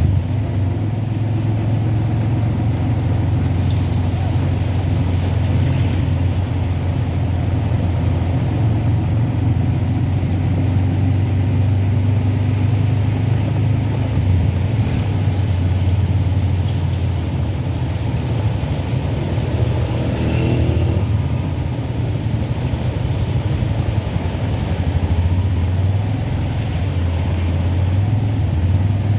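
A car driving on a wet road in heavy rain, heard as a steady low drone of engine and road noise.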